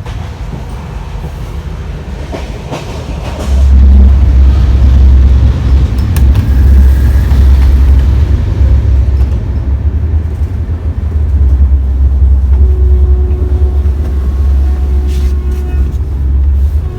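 Indian passenger train running along the track: a loud, steady low rumble of the moving train, which grows louder about three and a half seconds in.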